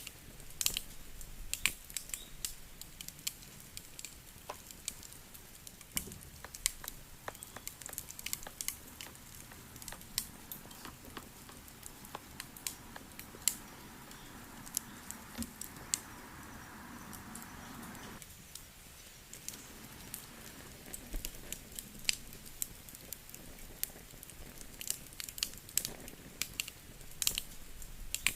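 Campfire crackling, with frequent sharp pops and snaps at irregular intervals. A softer, steadier rushing noise joins in the middle for several seconds and cuts off suddenly.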